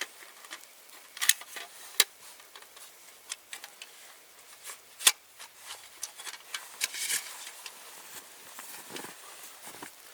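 Irregular sharp clicks and crackles over faint rustling, the sound of hands handling or snapping something; the loudest cracks come about a second in, at two seconds and at five seconds.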